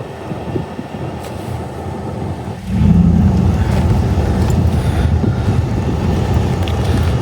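Vehicle on the move: a steady low rumble of road and engine noise that suddenly turns louder and heavier about two and a half seconds in.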